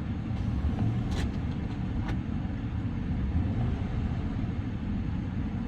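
BMW N55 turbocharged inline-six idling steadily, with a couple of faint clicks about one and two seconds in.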